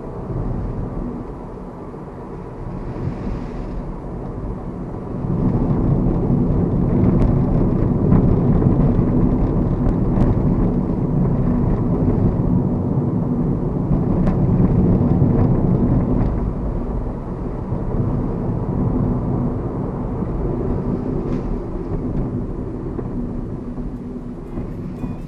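Mazda Verisa compact hatchback on the move, its engine and road noise heard from inside the cabin as a steady low rumble. The noise grows louder about five seconds in and stays up.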